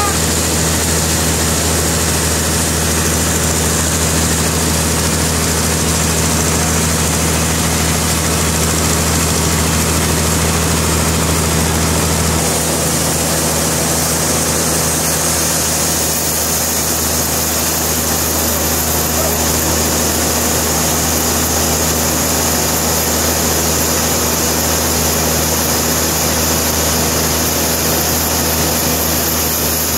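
Sawmill machinery running steadily with a continuous low hum and a broad whirring noise. The low hum drops in level about twelve seconds in.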